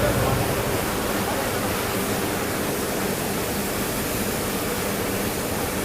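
Water spray from a motorcycle washing system giving a steady, even hiss, with a faint steady hum underneath.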